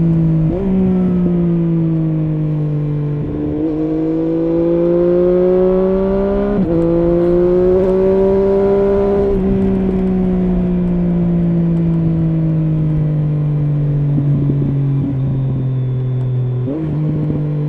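Triumph Street Triple S three-cylinder engine through an SC-Project SC1-R slip-on exhaust with dB-killer, running under way. The engine pitch mostly sinks slowly and rises once, and four times it jumps up sharply, as on downshifts.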